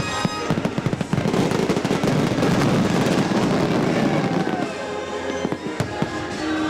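A dense barrage of fireworks bursts and crackling over the show's orchestral soundtrack, thinning out after about four and a half seconds, when choir music with scattered bangs comes back to the fore.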